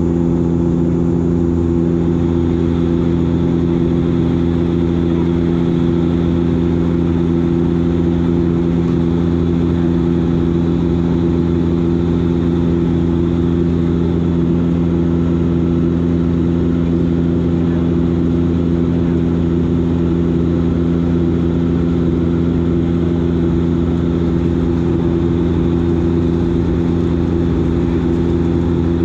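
Dash 8 Q400 turboprop engines and their six-bladed propellers droning steadily in flight, heard from inside the cabin: a constant hum made of several low, unchanging tones.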